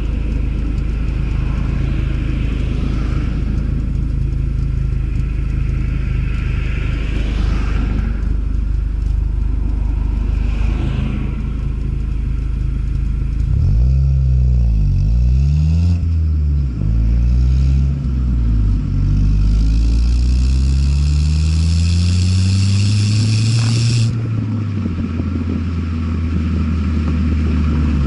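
Ford Fiesta ST's engine running steadily, then three quick rev blips, then a longer climb in revs lasting about five seconds with a hiss over it, falling back near the end.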